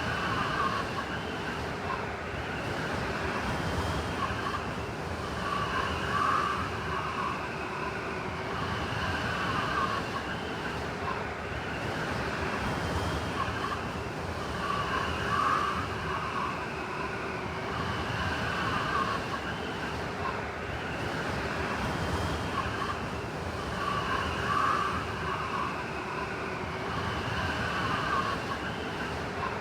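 Blizzard wind howling over a steady hiss of blowing snow, several wavering whistling tones rising and falling in gusts every few seconds.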